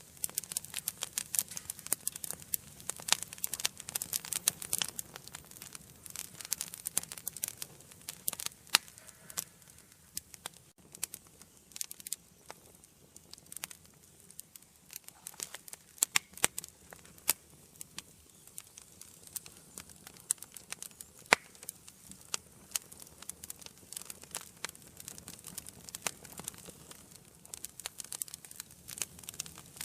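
Wood fire burning in a fireplace: irregular sharp crackles and pops from the burning logs over a soft steady hiss, busier in the first few seconds.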